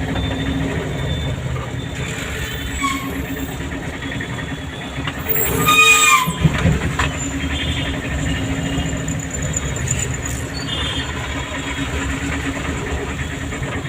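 Town road traffic heard from a moving car: a steady engine and road drone, with a short loud honk from another vehicle about six seconds in and fainter horns around it.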